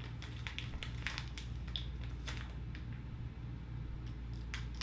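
Close-up chewing of a sticky gummy candy, with the crinkle of its plastic bag as fingers reach in, heard as a run of small irregular clicks and crackles over a steady low hum.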